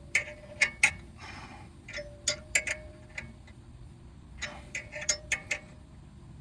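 Short runs of sharp metallic clicks from a hand ratchet as a caliper bolt is driven into a freshly installed thread-repair coil on the truck's front brake. Some clicks leave a brief metal ring.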